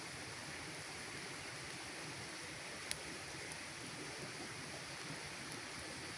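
Campfire burning with a steady hiss, one sharp crackle about three seconds in and a few faint ticks.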